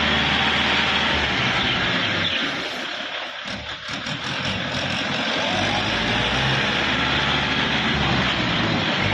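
Kubota L4708 DT tractor's diesel engine running steadily. Its low note fades for a second or two about three seconds in, then comes back.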